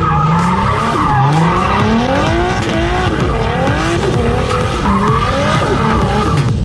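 Drift cars' engines revving up and down again and again, with tyres squealing as the cars slide.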